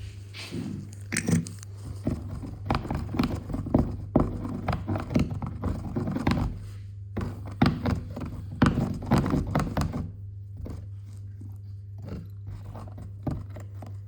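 Small tool knocking, chipping and scraping at hardened plaster-like scenery on a model railway baseboard while digging out a buried track pin. A quick, uneven flurry of knocks and scrapes stops about ten seconds in, over a steady low hum.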